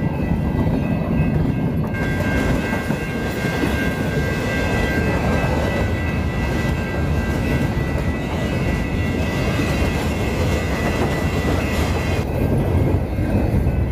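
Norfolk Southern freight train of empty cars rolling past, a steady loud rumble with wheels clicking over the rails. A steady high-pitched tone rides over it from about two seconds in until near the end.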